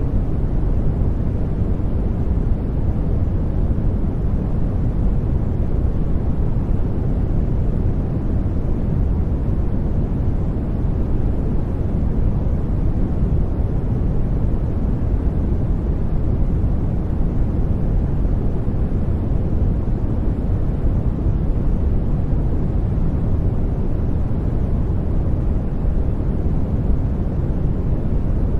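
Steady sleep-aid noise track: an even, unchanging rush weighted toward the low end, deep rather than hissy.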